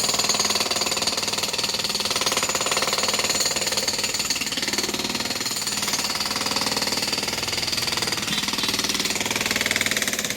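Demolition breaker hammering rapidly and steadily against a masonry wall, a continuous fast chatter of blows.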